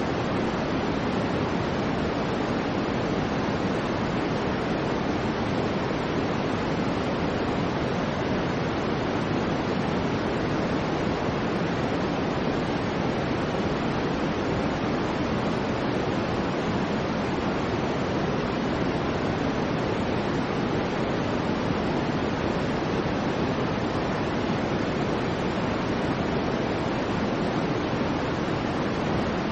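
Soft white noise for sleep: a steady, unchanging rush, fuller in the lows and mids than in the highs.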